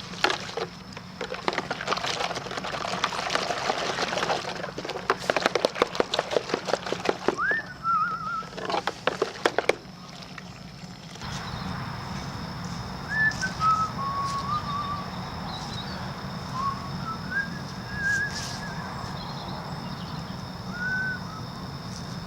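A K&N-style air filter being scrubbed by hand in a bowl of soapy water: rapid sloshing and squelching for about ten seconds. Then the scrubbing stops, leaving a steady low hum with short whistled, bird-like chirps.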